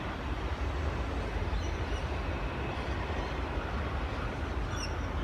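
Sydney Trains Tangara electric train pulling into the platform: a steady low rumble of the train running in.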